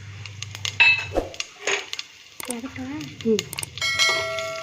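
Metal spoon and utensils clinking and knocking against a cooking pan while whole spices are added to hot oil, with one ringing metallic clang near the end.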